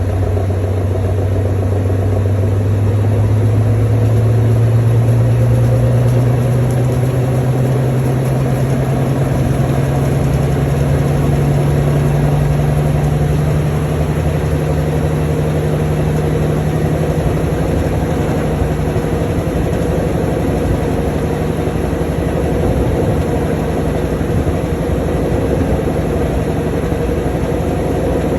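Washing machine in its spin cycle: the motor and drum hum rises in pitch as the drum speeds up through the first half, then settles into a steady spinning rumble.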